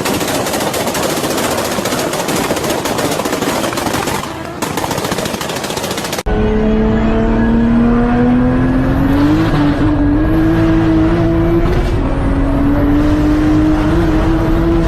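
Toyota Supra's turbocharged straight-six. For about six seconds it makes a loud, harsh, rapid crackling rasp. It then switches abruptly to a steady engine note that climbs slowly in pitch as the car accelerates, with a small step up about nine seconds in.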